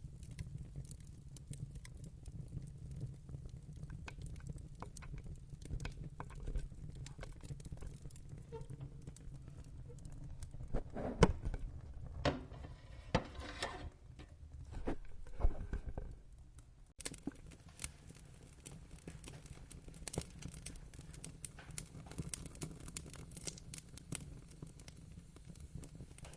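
Wood fire crackling in a fireplace: a steady low rumble of flames under many small pops and snaps, with a run of louder pops in the middle. The sound changes abruptly about two-thirds of the way through, then carries on crackling.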